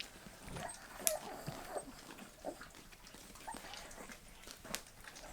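Bull terrier puppies feeding from the hand: scattered wet clicks and smacks of chewing and licking, with a few faint puppy squeaks, one about a second in.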